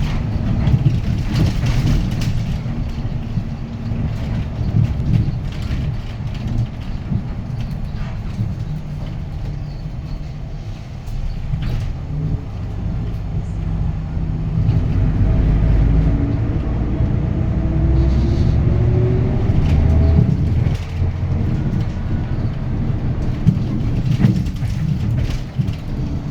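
Interior sound of a Hyundai Green City city bus with a D6GB diesel engine: a steady low engine drone. About halfway through, the engine pitch climbs as the bus pulls away and accelerates, with a few short clicks and rattles.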